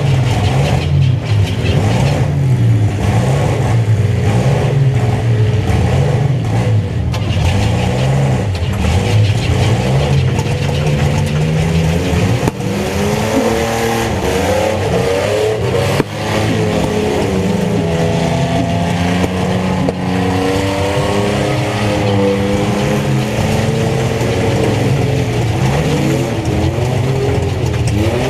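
Several mini truck engines revving at once, their pitches rising and falling and overlapping. Two sharp knocks cut through, about 12 and 16 seconds in.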